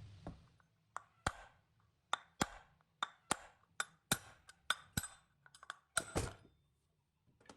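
A run of sharp taps and clinks, about fifteen at an uneven pace over five seconds, some with a short metallic ring: tools and metal fan parts being handled on a workbench.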